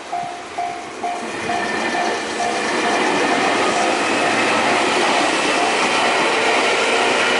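Level-crossing warning bell ringing in even pulses about twice a second while an electric train passes at speed, its wheel and running noise building from about a second in and drowning out the bell.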